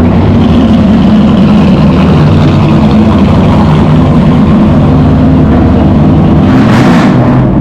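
Car engine idling loudly and steadily, with a brief rise in noise about seven seconds in.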